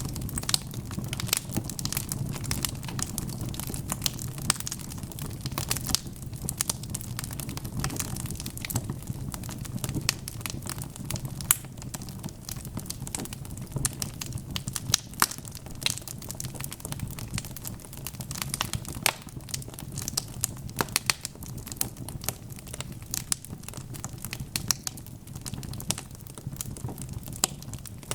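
Wood fire burning in a fireplace, with a steady low rumble of flames and frequent irregular crackles and sharp pops.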